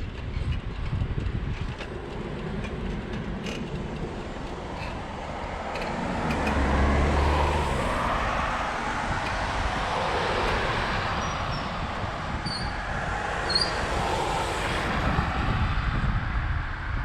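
Street traffic, with a motor vehicle passing close by: the sound swells about six seconds in, with a deep rumble, and eases off after about ten seconds. A few faint high squeaks come near the end.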